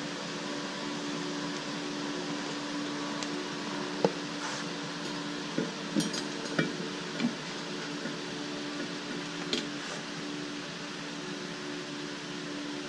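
A few sharp metallic clinks and knocks of metal pieces being handled on a welding bench, over the steady hum of shop machinery.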